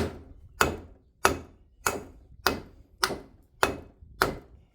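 Hammer blows on metal in a steady rhythm, about nine strikes a little over half a second apart, each with a short ring, driving a tight-fitting part down onto its shaft.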